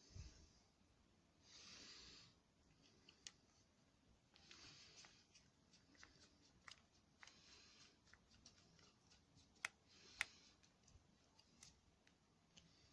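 Near silence broken by faint scattered clicks and soft rustles of hands working small parts on a hedge trimmer, with two sharper clicks a little after the middle.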